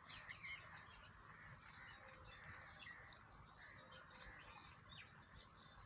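Faint background of insects trilling steadily at a high pitch, with a few faint bird chirps scattered through.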